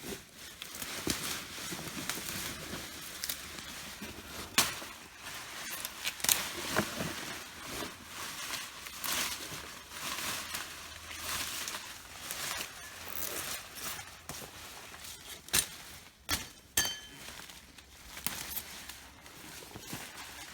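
Continuous rustling and crackling of soil and sweet potato vines being dug through, with many scattered sharp clicks.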